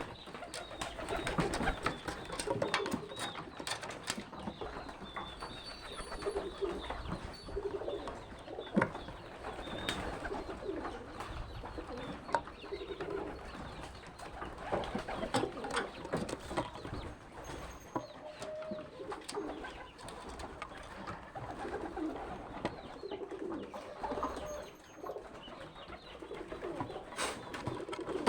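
Birds cooing over and over, in short low calls, with scattered sharp clicks and scuffling among them.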